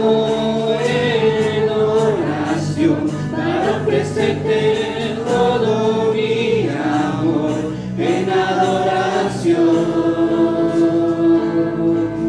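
Congregation and worship band performing a Spanish-language worship song, many voices singing together over instruments with a steady beat.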